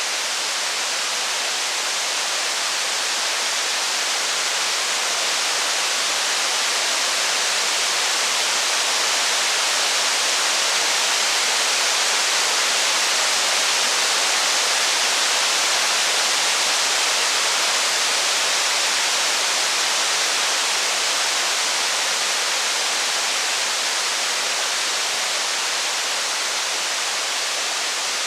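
Steady storm rain, a dense even hiss that swells slightly in the middle and eases a little toward the end.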